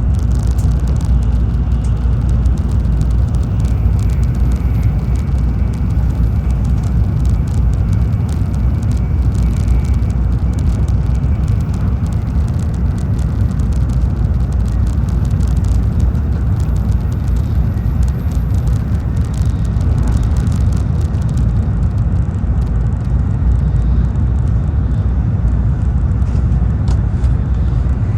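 Tokaido Shinkansen train running at speed, heard from inside the passenger cabin: a steady low rumble, with a faint high whine for several seconds early on.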